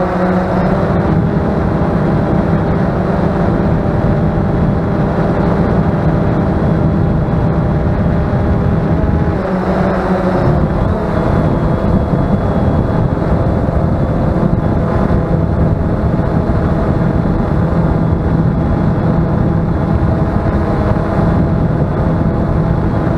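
Bayangtoys X21 quadcopter drone's motors and propellers whirring steadily, with strong wind buffeting the microphone. The pitch of the motors dips and shifts briefly about ten seconds in.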